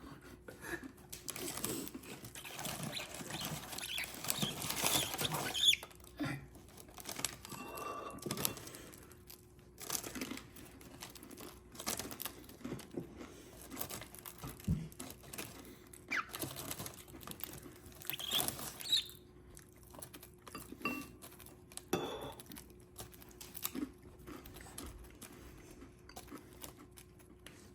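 Cockatiel pecking and crunching at its food: many quick beak clicks and rustles, with a few brief chirps.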